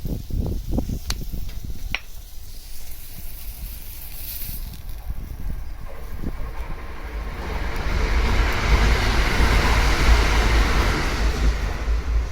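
A few light knocks, then a rushing noise with a deep rumble that swells, is loudest about ten seconds in, and eases off.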